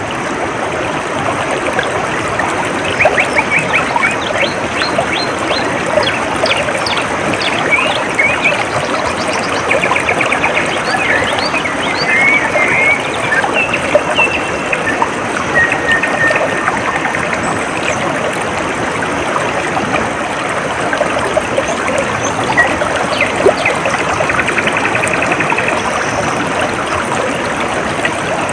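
Water trickling and flowing steadily, like a small stream, with birds chirping, trilling and whistling over it throughout.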